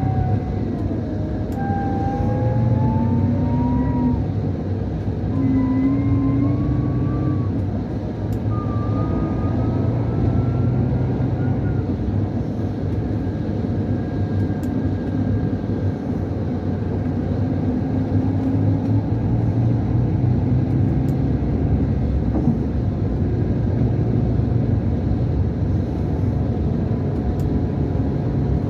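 Scania K440 coach's 13-litre inline-six DC13 diesel, heard from inside the cabin, with a whistle and whine over the engine. In the first dozen seconds the whistle climbs in pitch three times with short breaks between, as the Opticruise automated gearbox takes it up through the gears; after that it runs steadily.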